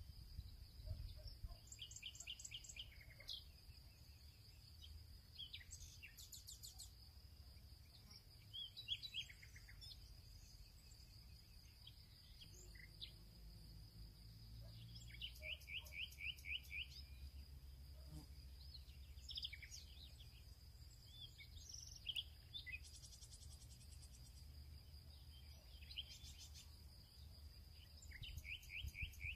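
Faint birdsong: small birds chirping and giving repeated quick trills, over a steady high-pitched drone.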